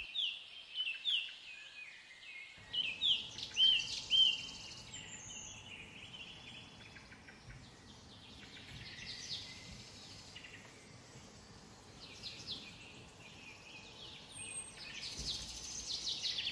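Small birds chirping, many short quick high calls in clusters, busiest in the first few seconds and again near the end.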